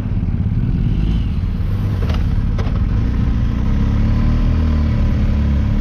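Motorcycle engine running under way, its pitch rising a little a few seconds in and then holding steady, with a couple of sharp clicks about two seconds in.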